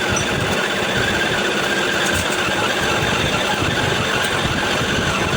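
A workshop machine running steadily without let-up, a continuous mechanical noise with a faint steady whine.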